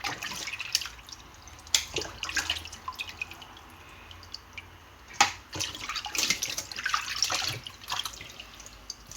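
Kitchen tap water running and splashing in a sink while fish is rinsed, with irregular knocks and clatters, the sharpest about five seconds in.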